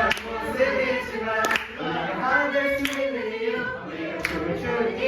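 A group singing a Korean worship song together, with a short sharp hit about every second and a half.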